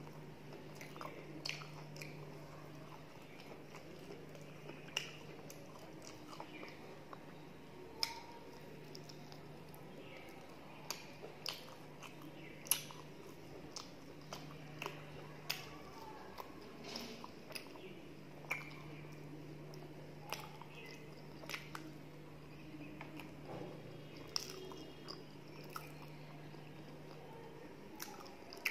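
Close-miked chewing and wet mouth sounds of a person eating luchi and khichuri by hand, with irregular sharp lip smacks and clicks every second or so.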